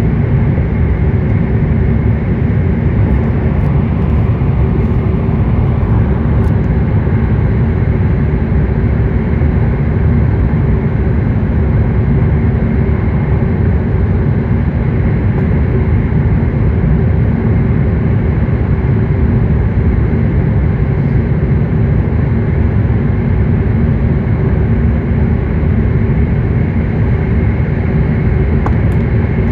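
Cabin noise inside a W7 series Hokuriku Shinkansen passenger car at speed: a loud, steady rumble of running gear and air, with a faint steady whine over it.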